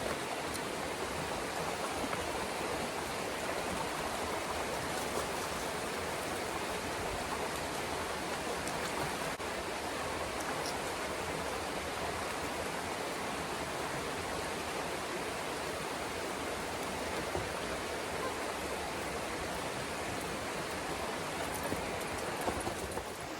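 Steady, even rush of running water from a nearby waterfall or mountain stream.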